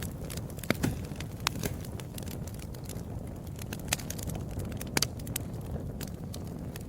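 Wood fire crackling: irregular sharp pops and snaps over a low steady rumble of burning flames, with a cluster of louder pops about a second in and another around five seconds.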